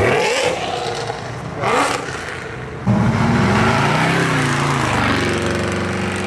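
Show cars driving off: first a car passing with a noisy rush of engine and tyres, then, from about three seconds in, the low engine rumble of a classic Ford pickup pulling away, its pitch rising and falling with the throttle.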